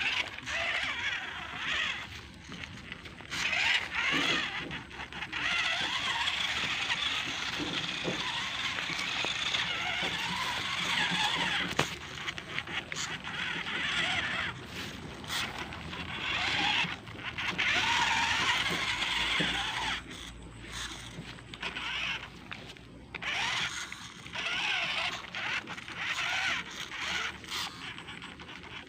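Radio-controlled monster truck being driven, its motor and tyres on the ground coming in stretches as it speeds up, slows and turns.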